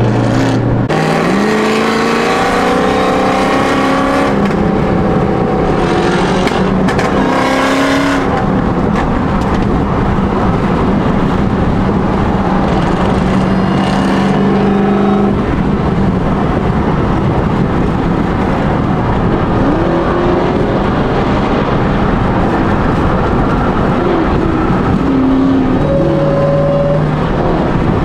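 Loud car engine revving and accelerating hard, its pitch climbing in several quick steps during the first eight seconds, then holding steady for a while, with more short rises of revs near the end.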